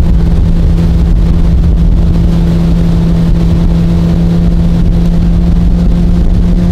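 Jet boat engine running loud and steady at an even pitch, under a dense rushing noise.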